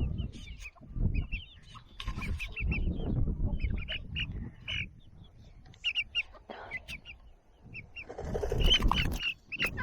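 Young chickens peeping in many short, high chirps, over a low irregular rumbling noise that grows louder near the end.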